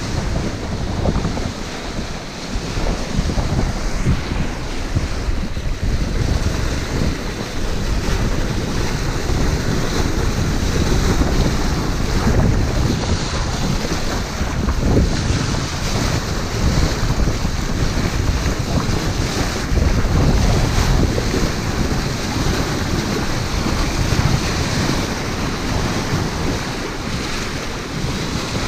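Wind buffeting the microphone in uneven gusts over the steady wash of waves, aboard a sailboat under way.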